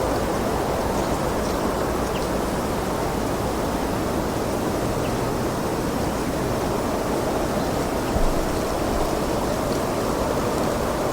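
Steady wind blowing, a continuous low rushing noise, with one brief low buffet about eight seconds in.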